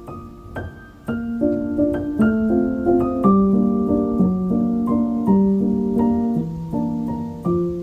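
Background music: a gentle piano piece playing a slow melody over chords.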